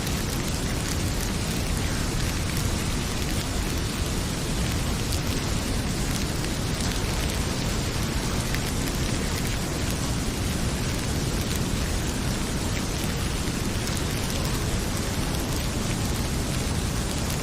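Heavy rain pouring steadily as a dense, even hiss, with a wood fire crackling in scattered small pops.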